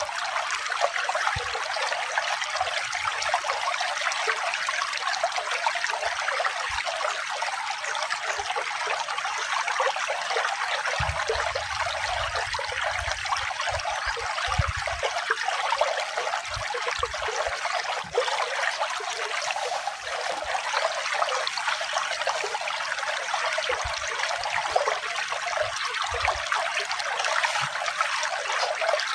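Running water trickling and splashing, steady and unbroken.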